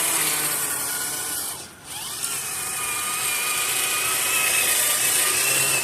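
Electric motor and drivetrain of a Traxxas TRX4 RC crawler whining as it drives. The whine cuts out briefly about two seconds in, then picks up again and holds steady.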